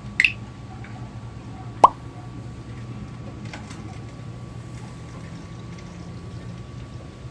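Two water drops plopping, the second louder with a quick rising pitch, over a steady low hum.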